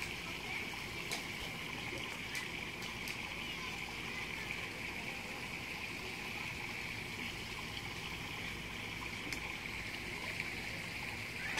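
Steady flowing water of a stream, with a steady high hiss and a few faint clicks.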